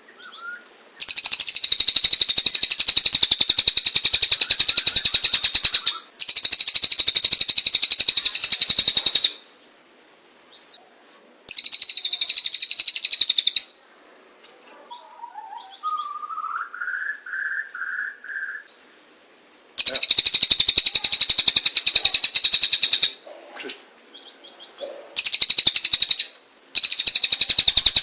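Domestic canary and cililin songbirds singing: long, very rapid high-pitched trill rolls lasting several seconds each, broken by short pauses, with a lower phrase of rising whistled notes about midway.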